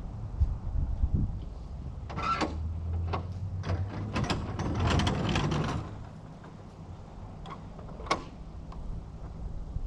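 Radio-controlled scale crawler truck running, its small electric motor whirring under a low rumble, with a burst of clicks and rattles from the chassis and tyres on rock between about two and six seconds in and one more knock near the end.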